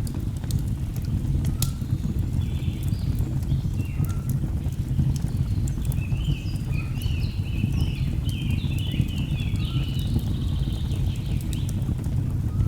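Layered nature ambience: a steady low rumble of a waterfall under the sharp pops and crackles of burning logs in a fireplace, with a songbird singing quick chirping phrases a few seconds in and again through the middle and end.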